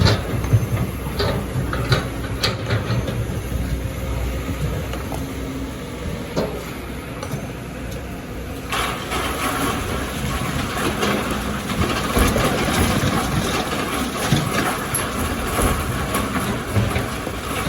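Excavator's diesel engine running steadily, with a few sharp knocks in the first few seconds; about nine seconds in a louder, continuous rattling clatter starts and carries on.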